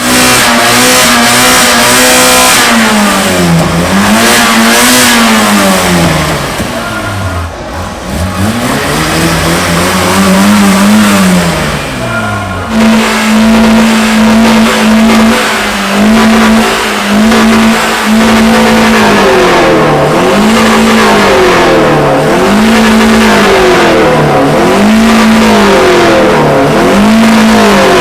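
A car engine revved hard: its pitch swings down and back up several times, then it is held high with short regular dips and recoveries, about one every second and a half.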